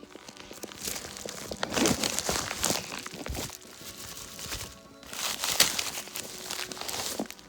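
Rustling and crinkling handling noise with scattered clicks and knocks, in uneven bursts, over quiet background music.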